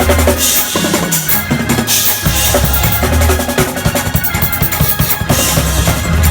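Drum kit played hard and fast: a dense run of snare and bass-drum strokes with cymbal crashes about half a second in, around two seconds in and near the end, over held low bass notes.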